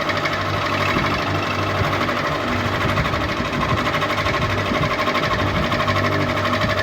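Electric ceiling fan running steadily: an even, fast-pulsing mechanical whir over a constant hum.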